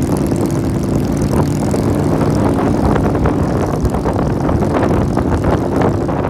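Motorcycle engine running steadily at cruising speed with wind noise on the microphone.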